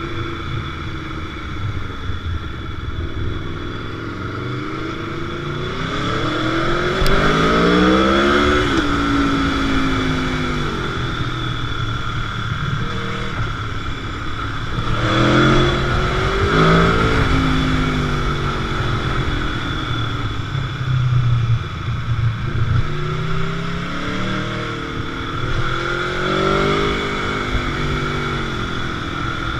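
Sport motorcycle engine under way, the revs climbing hard and dropping back three times as the bike accelerates and eases off between stretches of steady running.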